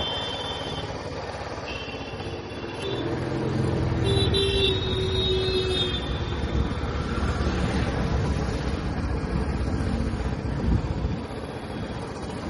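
Royal Enfield Classic 350 single-cylinder engine and exhaust running in city traffic, its rumble getting louder a few seconds in. Vehicle horns honk briefly three times in the first half.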